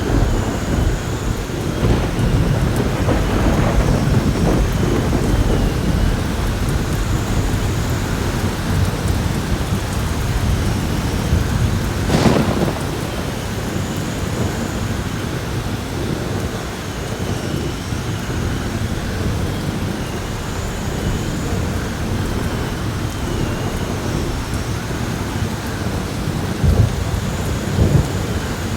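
Heavy rain pouring steadily with rolling thunder that rumbles through the first few seconds. About twelve seconds in there is one sharp thunder crack, and near the end two short low thuds.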